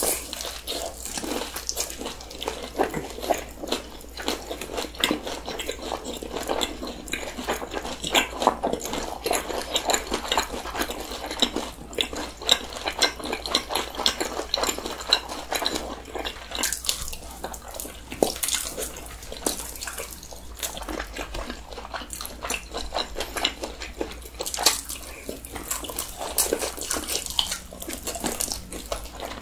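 Two people biting and chewing seasoned fried chicken close to the microphone: crisp crunching of the fried coating mixed with wet chewing, a dense stream of small crackles and clicks.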